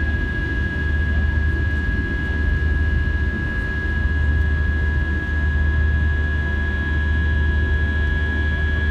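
Airbus A320-200 jet engines and airflow heard from inside the cabin: a steady low rumble with a steady high-pitched whine over it, at constant power.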